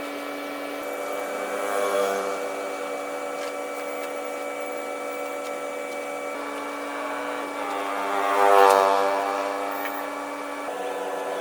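A motor running with a steady hum, swelling louder about two seconds in and again, more strongly, near the end.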